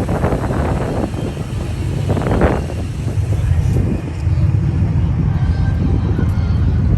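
A car engine idling with a steady low rumble, with brief voices in the first couple of seconds.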